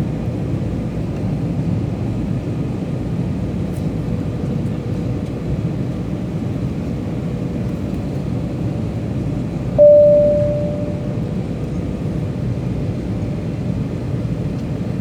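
Steady rumble of an airliner cabin in flight, with a faint steady hum. About ten seconds in, a single clear ringing tone sounds suddenly and fades over about a second and a half.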